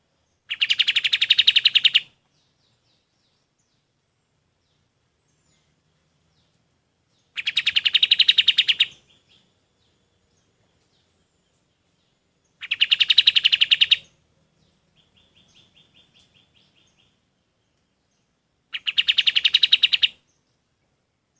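Kapas tembak songbird singing four loud bursts, each a rapid run of about ten identical chirps a second lasting about a second and a half, spaced some five to six seconds apart. A fainter, shorter trill falls between the third and fourth bursts.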